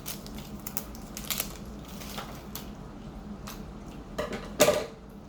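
Hands and scissors working at a stubborn plastic toy package: scattered clicks and crinkles, with one louder crackle near the end.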